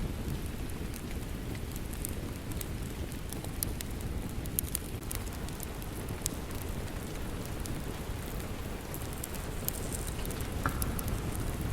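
Steady rain mixed with a crackling wood fire: a continuous low rain rush with scattered sharp crackles and pops over it.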